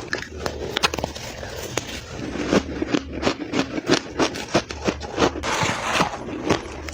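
Soft, powdery crushed ice being bitten and chewed close to the microphone: a quick, irregular run of crisp crunches and crackles.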